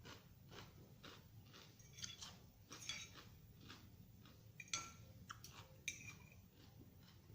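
Faint crunchy chewing of raw vegetable salad, regular crunches about three a second, with a few sharp clinks of cutlery against a dish.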